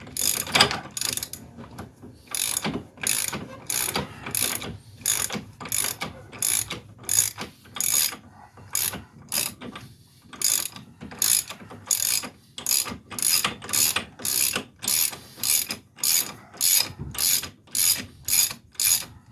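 Hand ratchet wrench clicking in quick, even back-and-forth strokes, about two a second, backing off a long-threaded nut.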